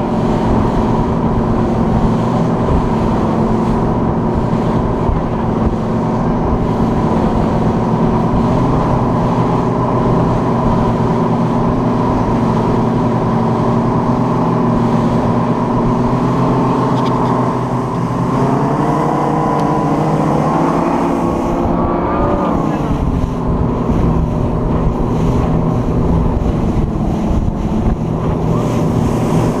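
A yacht tender's engine runs steadily under way. About two-thirds of the way through, the revs climb for a few seconds, then fall sharply as the throttle is eased back, and it runs on at a lower pitch.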